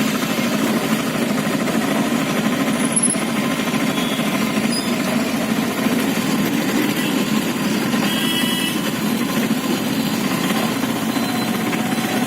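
A small vehicle's engine running steadily with a fast, rattling beat, heard from aboard. Near the end there is a faint rising whine.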